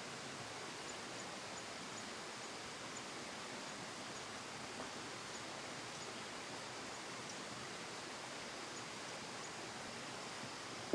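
Steady, even outdoor hiss, with faint high chirps repeating about twice a second.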